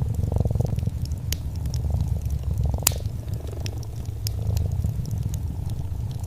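A cat purring steadily, with a fireplace fire crackling and popping over it; the sharpest pop comes about three seconds in.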